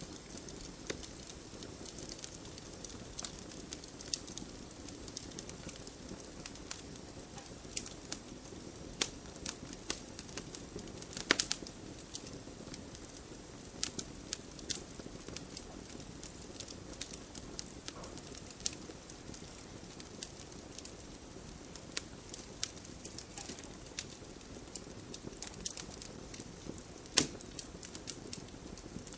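Wood fire burning in a fireplace: steady low hiss with irregular small crackles and pops, two of them louder, about eleven seconds in and near the end.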